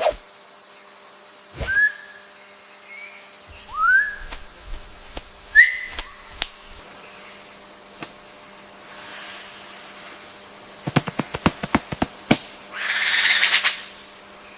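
Forest bird calls: three short rising whistles a couple of seconds apart, then a quick run of sharp clicks, then a short harsh rasping call.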